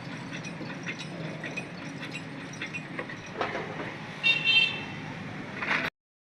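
Steady low traffic rumble with scattered light metallic clicks, and a short high-pitched vehicle horn toot, sounded twice, a little past four seconds in. The sound cuts off abruptly near the end.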